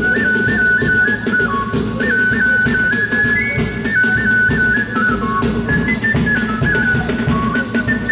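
Folk music: a high, pure-toned piping melody with quick trills and runs, played over drums.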